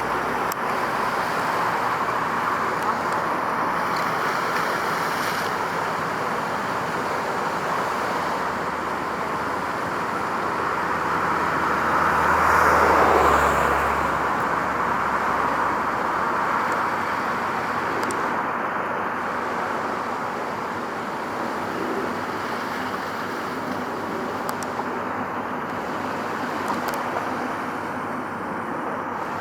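Steady road traffic noise. One vehicle passes close about halfway through, swelling and then fading.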